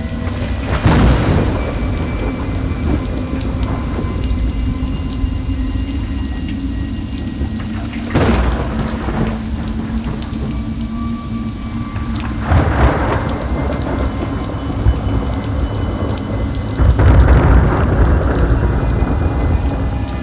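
Rain falling steadily, broken by four rolls of thunder: about a second in, about eight seconds in, around twelve to thirteen seconds in, and a longer one about seventeen seconds in. Faint held tones sit underneath the rain.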